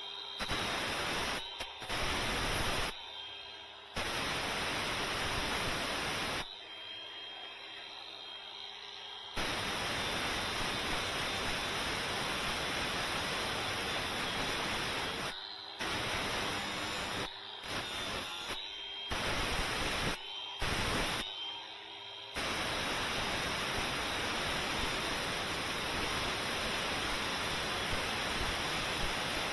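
Compressed air rushing from an air tool in a loud, steady hiss that cuts in and out sharply several times, as the trigger is squeezed and released while rust is cleaned off the seat base's metal.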